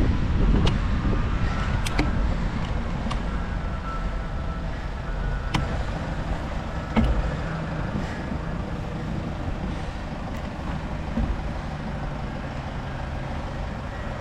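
Steady rumble of street traffic and road noise on wet city streets, heard from a moving bicycle, slowly easing off. Scattered sharp ticks come through, the loudest about seven seconds in.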